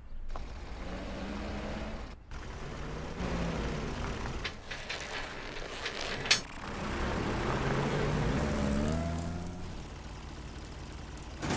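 Cartoon truck engine sound effect running, with a few sharp clicks in the middle and a rise in pitch near the end as it revs.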